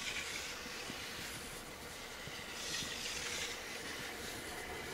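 A 683 series electric limited express train running slowly through deep snow, heard as a steady rushing hiss that swells twice.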